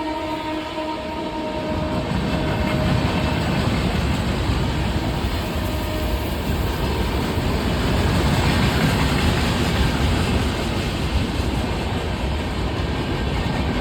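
A train running on the rails: a steady, loud rumble of wheels and cars, with the last of a horn tone fading out in the first few seconds.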